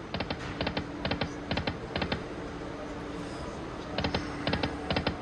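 Autumn Moon video slot machine clicking through a spin, quick groups of two or three sharp electronic clicks about twice a second over a faint steady tone, pausing for about two seconds in the middle.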